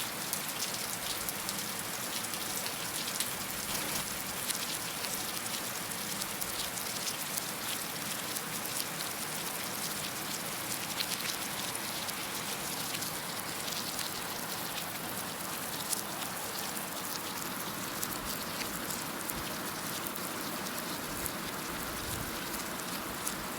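Heavy rain falling steadily on a surface, a dense even hiss with many individual drops pattering through it.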